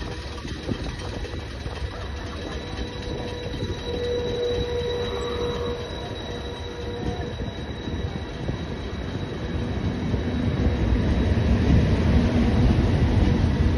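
InterCity passenger coaches rolling slowly past on the rails, a continuous rumble with a steady squeal from the running gear, growing louder over the last few seconds.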